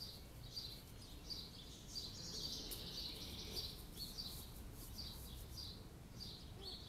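Faint outdoor ambience: a bird giving a short chirp over and over, a little under twice a second, over a low steady background noise.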